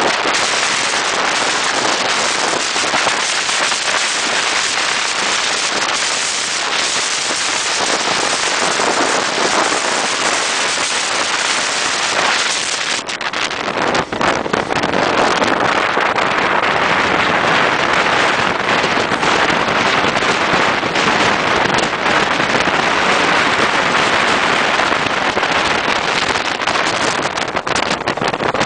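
Moving passenger train heard from an open door or window: a loud, steady rush of wind and wheel-on-rail noise. Frequent short clicks and knocks run through it from about halfway.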